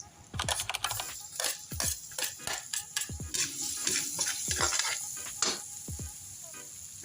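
Food frying in a pan while a utensil stirs and scrapes it, with irregular clicks against the pan. Background music plays along.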